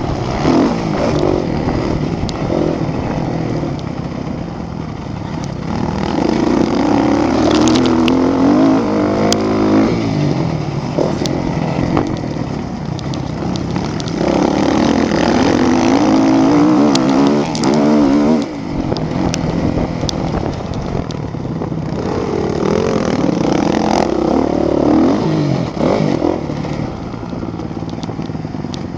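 Motocross motorcycle engines racing, revving hard with the pitch climbing and dropping again and again as the bikes accelerate, shift and ease off, loudest in a few surges as they pass.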